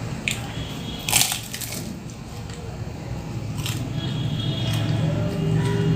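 Bites and chewing of a fried cauliflower samosa's crisp pastry: a few short crunches, the loudest about a second in, over a steady low hum that grows louder near the end.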